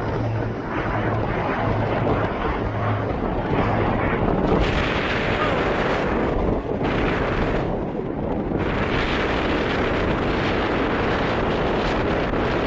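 Strong wind buffeting the microphone, a steady rushing rumble whose upper hiss drops away briefly a couple of times. A faint low hum sits under it in the first few seconds.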